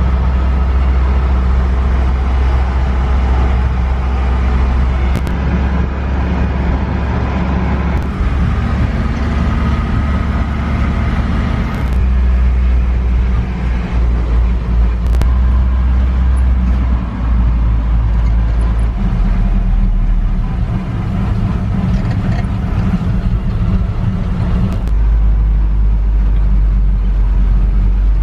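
Motor vehicle driving: a steady low engine and road rumble that shifts in strength every few seconds, with a few faint clicks.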